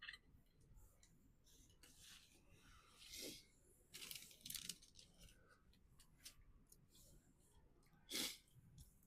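A person chewing and crunching food, faint, with a few short louder crunches, the loudest near the end.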